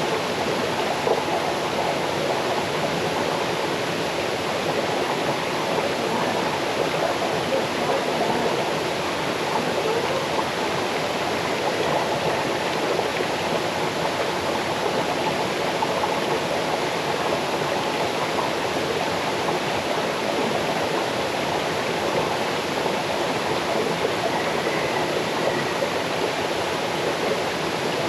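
Small waterfall and cascading stream: water pouring and splashing over rocks in a steady, unbroken rush.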